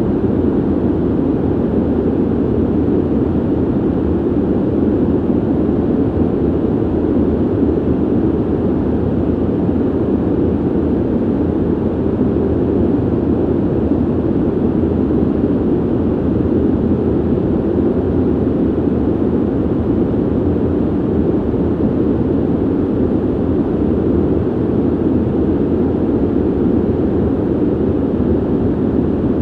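Steady ventilation noise: an even, low air rush from a ventilation system, strongest in the low-mid range with little hiss, unchanging throughout.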